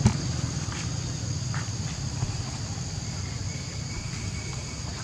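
Steady high-pitched insect chorus, with a low rumble underneath and one sharp knock right at the start.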